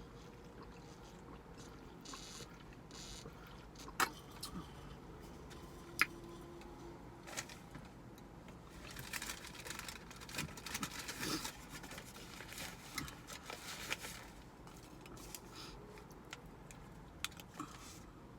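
Someone eating soup: two sharp clinks of a utensil against the container about four and six seconds in, then several seconds of busy clicking and rustling from handling the food.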